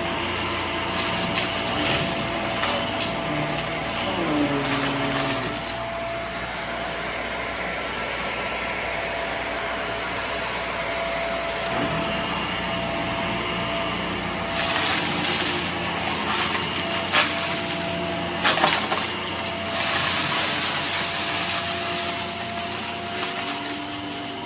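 Vacuum cleaner running steadily with a constant motor whine. In the second half the suction hiss gets brighter, with a few sharp clicks.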